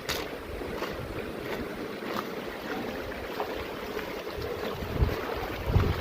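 Footsteps on a trail at a steady walking pace, about three every two seconds, over a steady rushing background noise. Wind buffets the microphone near the end.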